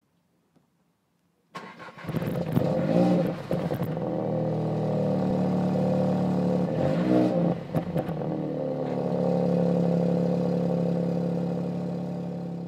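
Car engine starting about a second and a half in, then revved briefly twice, rising and falling in pitch. Between and after the revs it runs steadily.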